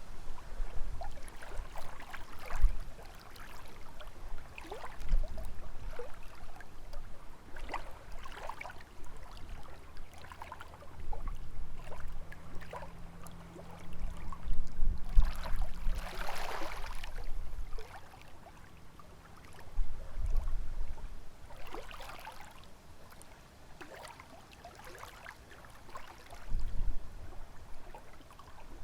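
Small lake waves lapping and splashing irregularly against the shore, with gusts of wind rumbling on the microphone. A faint low hum runs for several seconds midway.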